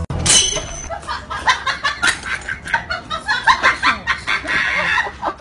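A woman giggling and squealing in quick, high-pitched bursts of laughter, with a shriek about a third of a second in.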